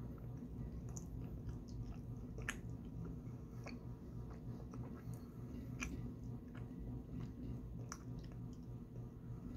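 Close-up chewing of soft taro fudge, with sharp wet mouth clicks every second or two. A steady low hum runs underneath.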